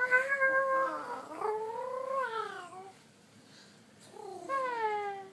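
A girl imitating a cat with drawn-out meows: one long, wavering meow lasting about three seconds, then a second, falling meow near the end.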